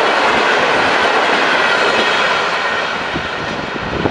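Long-distance passenger train coaches passing at speed: a loud, steady rushing noise of wheels on rail. It fades over the last second or so as the end of the train goes by and pulls away, with a few wheel clacks near the end.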